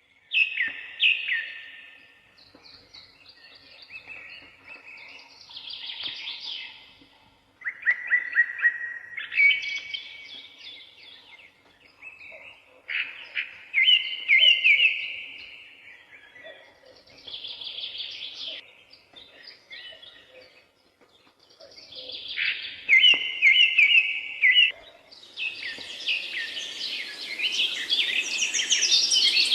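Magpie calling: short phrases of rapidly repeated, rattling notes, each a second or two long, with pauses between them. From about 25 seconds in, a steady hiss of background noise rises under the calls.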